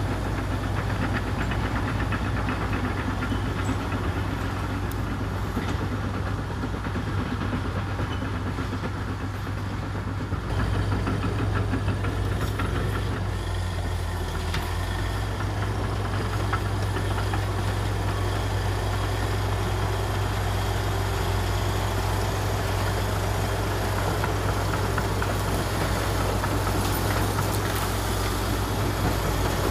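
Komatsu D61EX bulldozer's diesel engine running steadily, a little louder from about ten seconds in.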